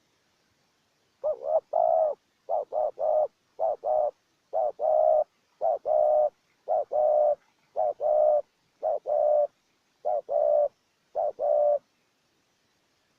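Spotted dove cooing: about ten short phrases of two or three notes each, roughly one a second, starting about a second in and stopping near the end.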